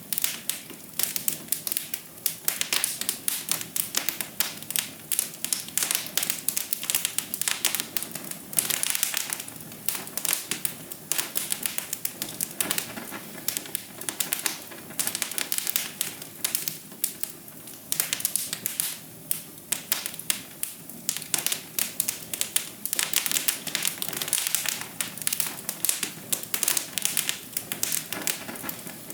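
Wood fire crackling in a fireplace: a dense run of sharp snaps and pops over a low, steady rush of flame.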